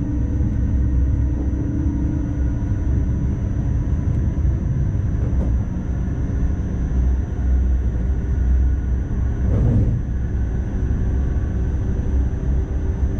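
Driving cab of an NS ICMm electric multiple unit running along the track: a steady low rumble with a constant high whine. A humming tone fades out a couple of seconds in, and there is a brief louder knock near the ten-second mark.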